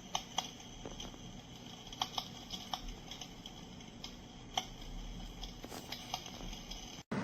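Electric fireplace heater's recorded fire-crackling sound effect: irregular sharp crackles, a dozen or more spread unevenly, over a steady background hiss, cutting off abruptly just before the end.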